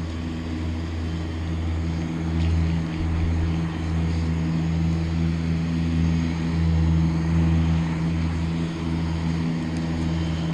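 A steady, low motor drone at an unchanging pitch: an engine running at constant speed.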